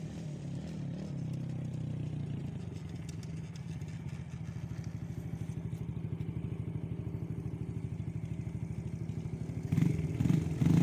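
Small engine of a kid's dirt bike or go-kart running at low speed with a rapid, even pulsing, getting louder just before the end.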